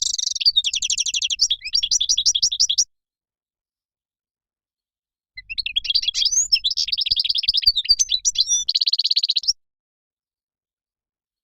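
European goldfinch song: rapid liquid twittering and trilled phrases with buzzy notes. There are two bursts of a few seconds each, and each stops abruptly into dead silence.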